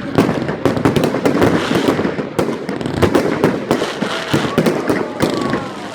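Fireworks going off: a rapid, dense series of bangs and crackling reports, many per second, with a few faint whistles near the end.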